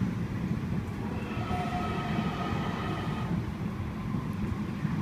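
Sydney Trains M set (Millennium) electric train running along the platform: a steady low rumble of wheels on rail, with a whine that comes in about a second in and fades out about three seconds in.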